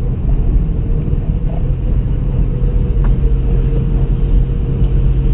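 A 2015 Mitsubishi Mirage being driven, with a steady low road and engine rumble and a faint steady whine. There is no grinding: the repaired transmission is running quietly.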